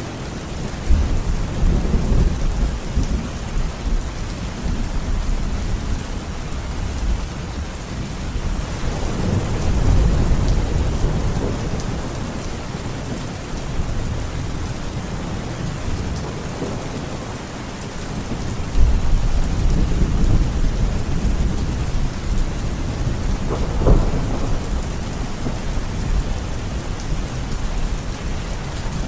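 Steady heavy rain with thunder rumbling low several times, and one sharper crack of thunder near the end.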